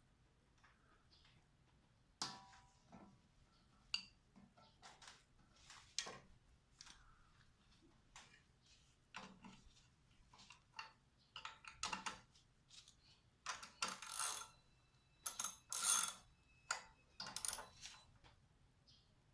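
Small metal engine parts and hand tools clinking and tapping irregularly, the clinks coming thicker in the second half, a few of them ringing briefly.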